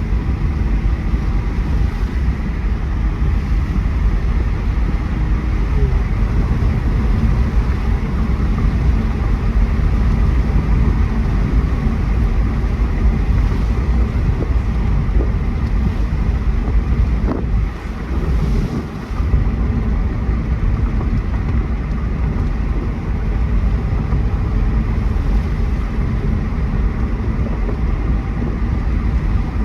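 A 2018 Mercedes-AMG E43's twin-turbo V6 running under way with road noise, steady and low-pitched, dipping briefly about two-thirds of the way through.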